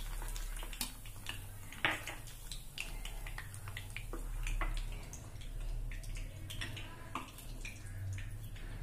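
A breaded chicken cutlet deep-frying in hot oil in a kadai: a steady sizzle with many small irregular pops and crackles.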